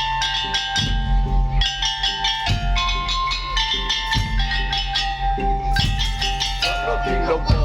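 Madurese percussion ensemble playing. Wood-block strikes and drums keep a steady beat under a high melody of long held notes that changes pitch about once a second.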